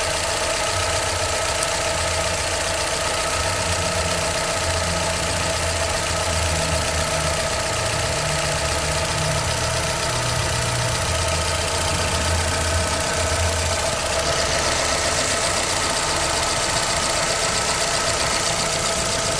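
Chevrolet Celta VHCE engine running steadily, with an abnormal mechanical noise from inside the engine that the owner traced to faulty hydraulic tappets. A low rumble under the sound drops away about three-quarters of the way through.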